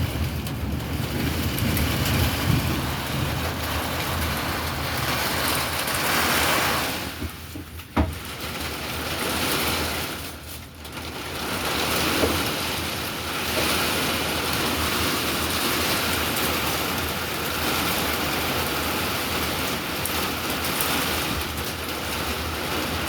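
Heavy thunderstorm rain pouring down in a steady hiss that eases off twice. One sharp click about eight seconds in.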